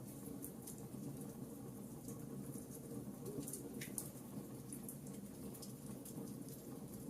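Campfire crackling faintly: scattered small pops and ticks, one sharper pop a little after halfway, over a low steady rumble.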